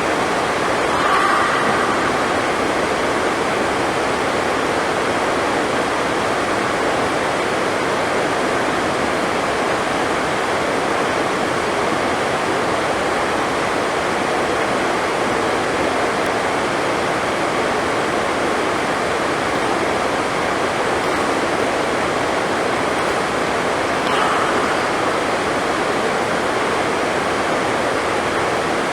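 Heavy rain, a steady even rush of noise with only faint brief bumps about a second in and near the end.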